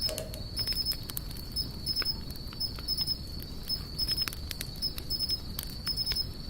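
Wood fire crackling, with frequent sharp snaps and pops. Behind it runs a steady high-pitched trill and a short high chirp repeating about twice a second, typical of insects at night.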